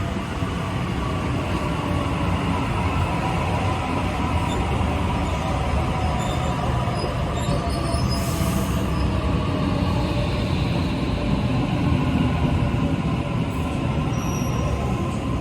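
Sydney Trains electric suburban train moving through the station: a steady rumble of wheels on rail with a whining motor tone, and a brief high-pitched squeal about eight seconds in.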